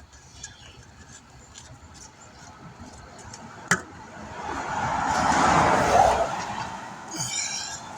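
A car driving past: tyre and road noise swelling up over a couple of seconds and fading away again, after a single sharp click a moment before it.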